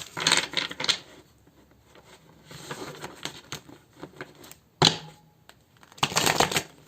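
Tarot cards being shuffled and handled: quick bursts of rapid card riffling in the first second and again about six seconds in, with a single sharp click shortly before the second burst and light card rustling in between.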